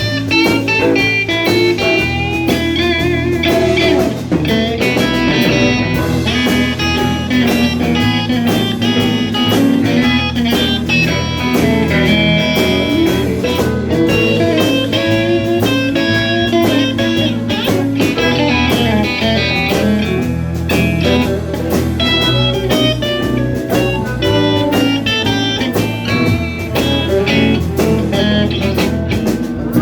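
Live blues band playing an instrumental passage, with an electric guitar leading in wavering, bent notes over bass and drums.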